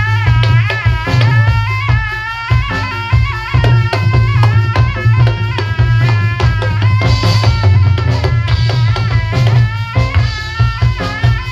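Loud live band music accompanying a Javanese barongan performance: driving drums and a steady bass under a melody line that bends in pitch.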